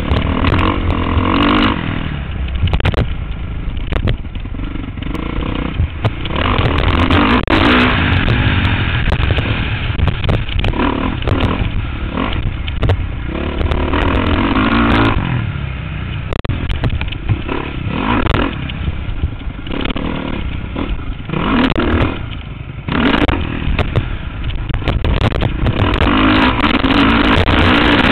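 Motocross bike engine heard from a helmet camera, revving up and falling back again and again as it is ridden through a lap, with sharp clicks and clatter throughout.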